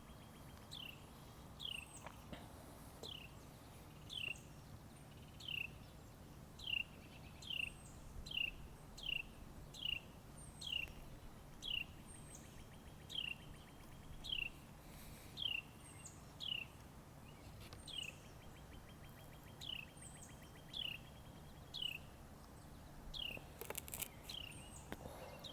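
A bird calling: a short, high downslurred note repeated about once a second, with a faint buzzy trill between some of the notes.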